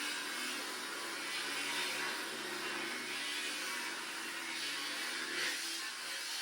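A power tool whirring steadily while cutting and cleaning up steel sheet pieces.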